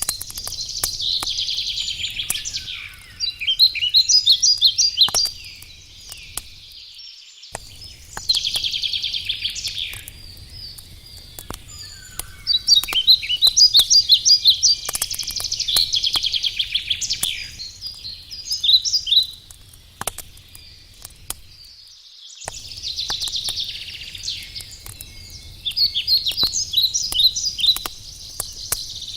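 A songbird singing repeated phrases of chirps and quick trills, over the sharp intermittent crackle of burning firewood in a campfire.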